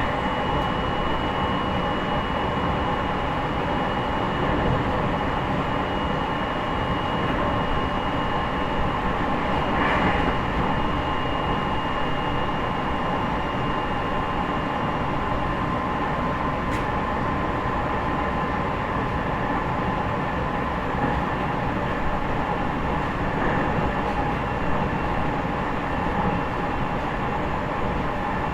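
Interior running sound of a JR East E501 series electric train, heard in motor car MoHa E501-8: a steady rumble of wheels on rails with a few faint steady high tones that drift slightly lower, over some air-conditioning noise.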